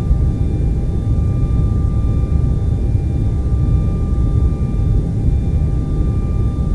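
Steady TV static noise, deep and rumbling more than hissing, with a few faint steady whining tones running through it.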